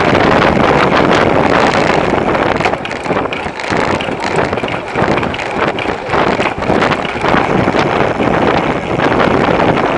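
Wind rushing over the microphone of a bicycle-mounted camera while riding, with bike and road noise underneath; it eases a little about three seconds in.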